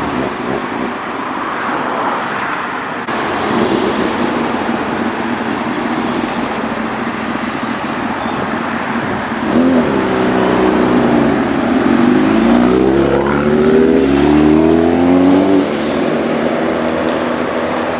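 Traffic noise, then from about halfway a superbike accelerating hard past, its engine pitch climbing and dropping back with each gear change; the engine sound cuts off suddenly near the end.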